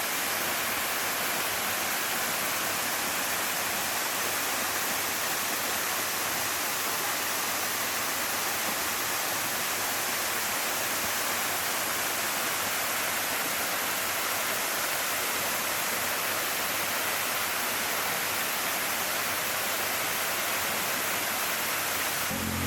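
Waterfall and shallow stream water rushing steadily: an even hiss with no breaks or changes.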